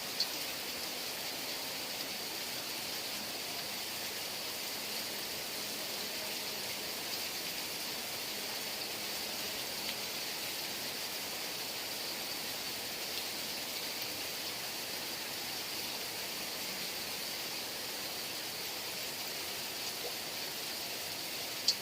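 Heavy rain falling steadily, an even hiss with a few sharp drop ticks, one louder near the end.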